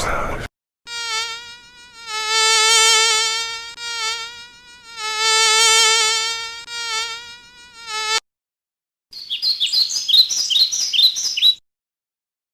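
A buzzing flying insect, a steady wavering buzz that swells and fades twice, as if passing close by. After a short gap comes a quick run of short, high chirps lasting about two and a half seconds.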